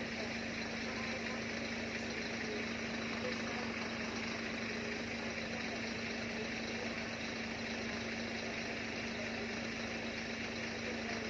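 Steady mechanical hum: one constant low tone over an even hiss, unchanging in level and pitch.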